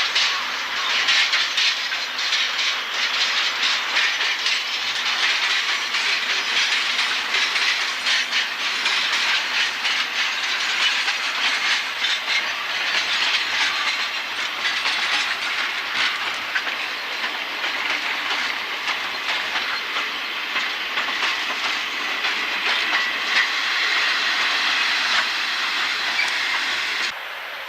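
Mixed train hauled by two JNR DE10 diesel locomotives running past, its wheels clacking over the rail joints under a steady hiss. The sound cuts off suddenly near the end.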